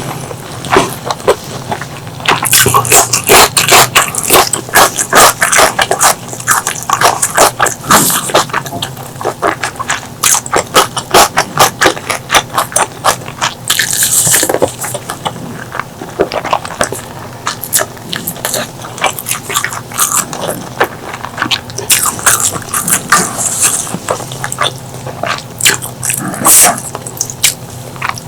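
Close-miked eating sounds: chewing and wet mouth smacking on pork leg curry and rice, a dense, irregular run of small clicks. Now and then there is a short hissing rush, the loudest at about fourteen seconds in.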